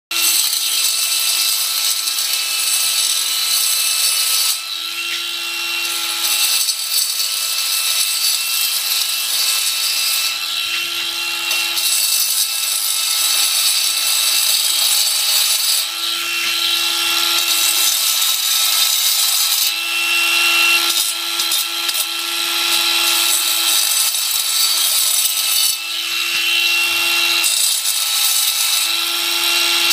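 Angle grinder with a diamond blade cutting along a crack in concrete screed to open it up for repair. A steady motor whine runs under a loud grinding rasp, which eases and bites again every few seconds as the blade is worked along the crack.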